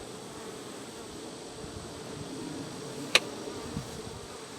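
Honeybees buzzing around an open hive, a steady hum. A single sharp click about three seconds in.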